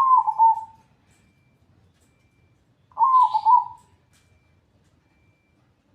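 Zebra dove (perkutut) cooing: two short, warbling coos about three seconds apart.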